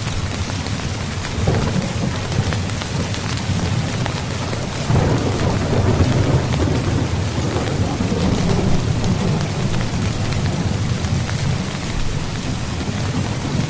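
Steady rain falling on a tent, with fine drop ticks and a low rumble of thunder underneath that swells about five seconds in.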